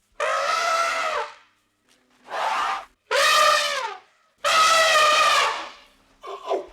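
Elephant trumpeting: a series of five loud, brassy calls, each up to about a second long and separated by short gaps, several falling in pitch as they end.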